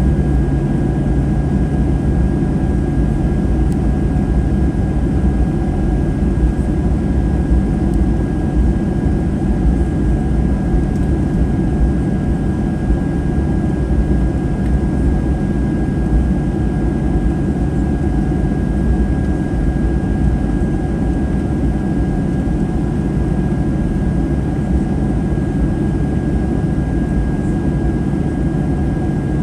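Steady cabin noise inside a Boeing 737-800, heard from a forward seat: the low hum of its CFM56-7B jet engines and the airflow, with a faint steady high tone over it and no change in level.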